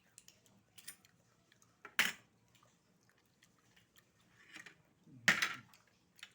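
Oyster shells clattering against a plate as they are handled during eating, with two loud clatters, about two seconds in and again past five seconds, and a few lighter clicks between.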